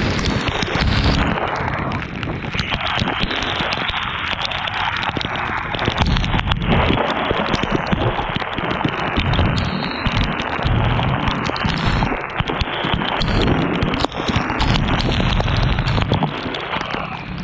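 Wind buffeting the microphone and rain hitting it during a motorcycle ride in the rain. A low rumble surges and dips under a constant crackle of sharp raindrop clicks.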